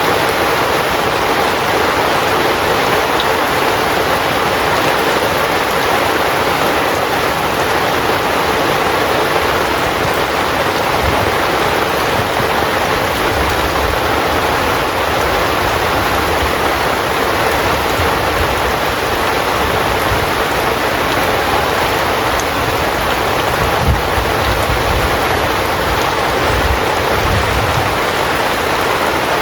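Heavy rain falling steadily on a tent, a dense even hiss, with a few low rumbles in the second half.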